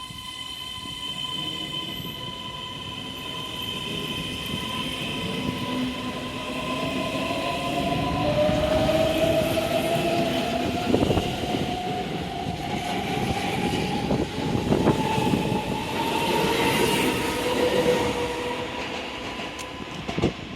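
Keisei Skyliner electric train pulling out and accelerating, its motors whining in pitched tones that climb steadily from about eight seconds in, over the rising rumble of wheels on the rails.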